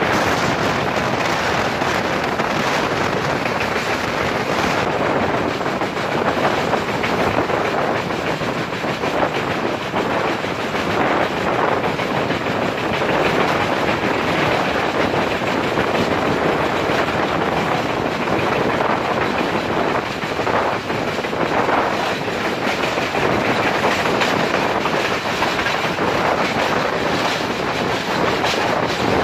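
Express train running at speed: a steady rush of wheel-on-rail noise and the carriage rattling along the track.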